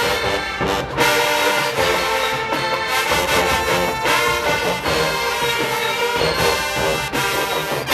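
HBCU show-style marching band playing loudly, with trumpets and trombones over the drum line.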